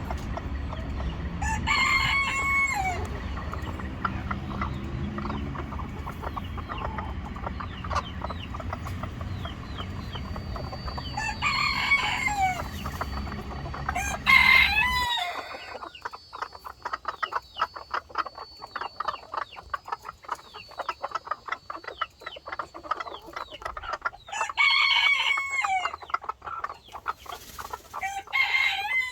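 A rooster crowing about five times, with fainter clucking and chirping between the crows. A low rumble sounds under the first half and stops suddenly about halfway through.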